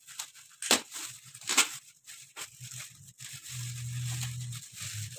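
Gift packaging being torn open and crinkled: two sharp rips about a second apart near the start, then softer rustling.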